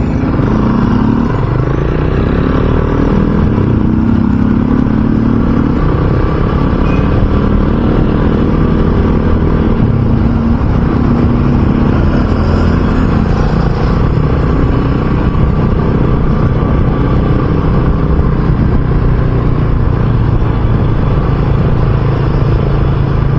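RUSI Classic 250 motorcycle engine under way: its pitch rises and steps up through the gears in the first few seconds, then it runs at a steady cruising note.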